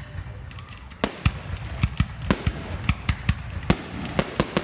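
Fireworks display: a rapid string of sharp bangs and pops, roughly three a second, starting about a second in.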